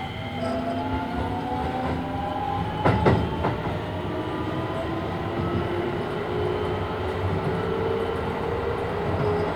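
Inside a Keisei 3000-series car: the Toyo IGBT-VVVF traction motors whine in several tones that slowly rise in pitch as the train accelerates, over steady wheel and running noise. About three seconds in the wheels give two sharp clacks half a second apart, crossing a rail joint.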